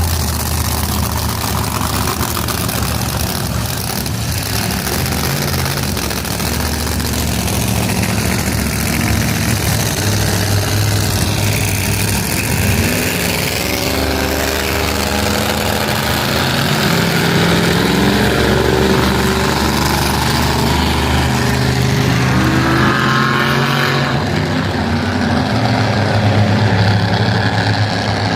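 Big truck engines running loudly, with one engine revved up and down several times in the second half.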